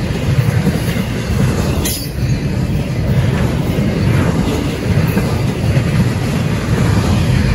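Double-stack intermodal freight train passing close by at speed: steady, loud rumble and rattle of steel wheels on the rails and the container well cars.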